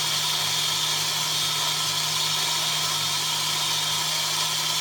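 Electric valve seat grinder running steadily, its spinning stone grinding a valve seat in a Pontiac 400 cylinder head: an even hum under a broad hiss, with no change in pace.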